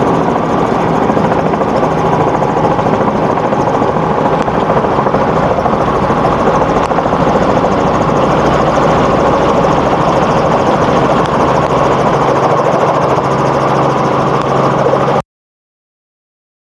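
Helicopter turbine and rotor noise heard from inside the cabin, a steady, loud drone that cuts off suddenly near the end.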